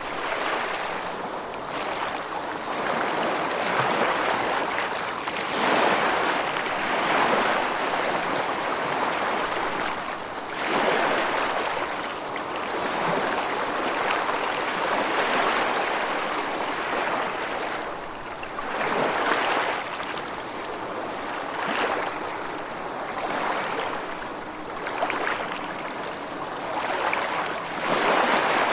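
Rushing water in a continuous wash that swells and falls back every few seconds, like waves breaking. No thunder is heard.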